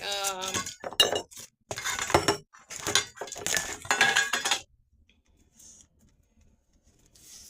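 Tamarind pods being shelled by hand: brittle shells cracking and clinking in several clusters of sharp strokes over the first four and a half seconds, then only faint small sounds.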